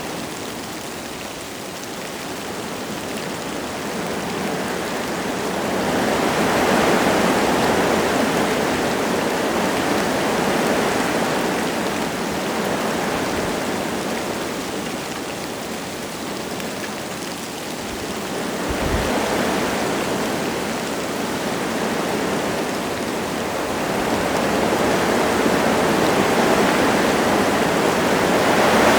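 Wind gusting through forest trees with light rain falling: a steady rushing noise that swells and eases in several long gusts.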